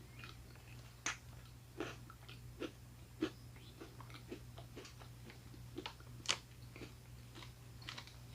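A person chewing a mouthful of snack, faint and irregular, with soft scattered clicks and a sharper one about six seconds in.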